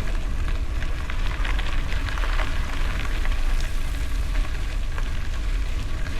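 Bicycle tyres rolling over gravel, a dense, steady crackle of small stones, over a heavy low rumble of wind buffeting the microphone.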